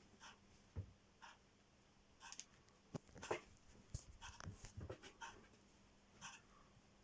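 A cat digging at socks, its paws scratching and rustling the fabric in faint, short, irregular strokes, with a few soft thumps.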